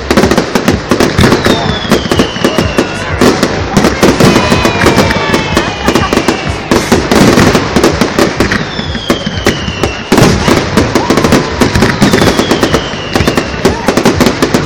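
Firework display: a dense run of sharp bangs and crackling from bursting shells. Several falling whistles run through it.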